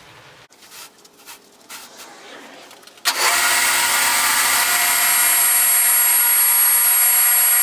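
A few light knocks, then about three seconds in an electric power tool starts abruptly and runs steadily at full speed with a high motor whine.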